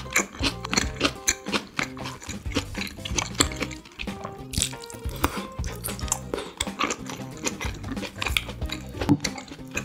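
Close-miked chewing of chunks of chop steak, with wet mouth clicks and smacks and chopsticks tapping, over light background music.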